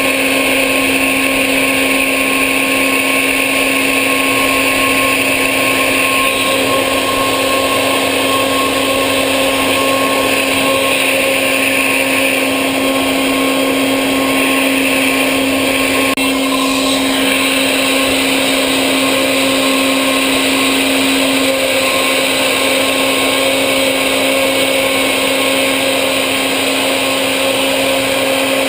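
CNC machine running steadily while machining: a constant motor whine over a hissing noise.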